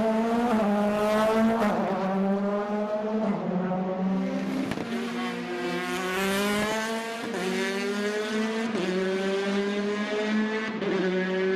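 Rally car engines revving hard under acceleration, the pitch climbing and then dropping at each gear change, several times over.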